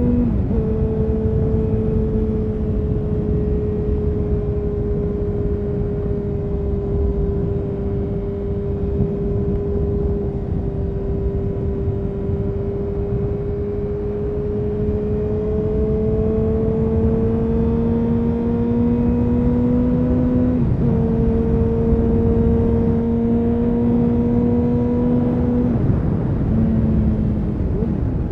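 2000 Honda CBR929RR Fireblade's inline-four through an Erion Racing full exhaust, pulling steadily at part throttle while riding. The pitch sags slowly and then climbs, with sudden drops at gear changes about half a second in, about two-thirds through, and twice near the end.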